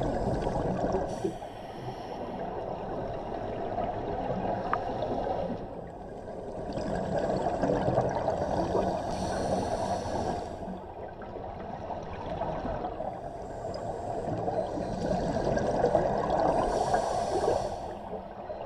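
Scuba diver breathing through a regulator underwater: a hiss on each inhale and a gurgling rush of exhaled bubbles, in a slow cycle about every eight seconds.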